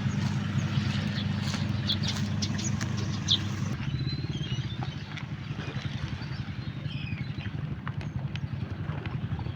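An engine running steadily at low speed, with scattered light clicks and knocks over it.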